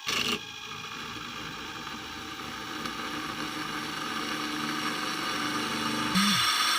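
Drill press running, its bit cutting into a 1/8-inch steel plate. A short loud burst at the start, then a steady machine sound that grows gradually louder, stepping up in level near the end.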